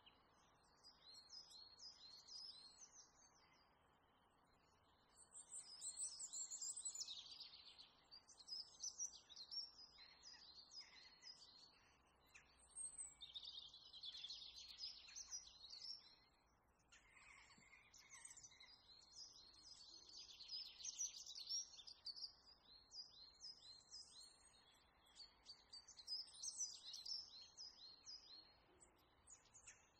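Faint birds chirping and twittering in bursts of quick repeated notes lasting a few seconds each, over a low steady hiss.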